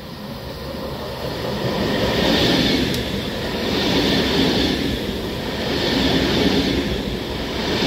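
České dráhy Pendolino (class 680) tilting electric train passing at speed: a rushing noise of wheels on rail that builds over the first two seconds, then swells and eases regularly, about every two seconds, as each car's bogies go by.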